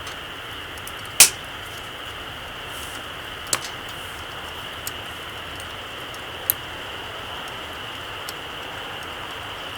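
Small wood campfire crackling: a few sharp pops, the loudest about a second in and another about three and a half seconds in, over a steady hiss.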